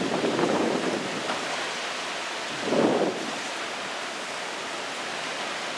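Tropical-storm wind and rain: a steady hiss with two brief, louder gusty swells, one at the start and one about three seconds in.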